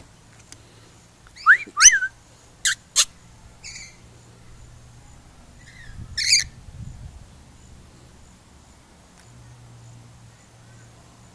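Lorikeets giving a handful of short, shrill calls, some swooping in pitch: a cluster about one and a half to three seconds in and another loud one about six seconds in.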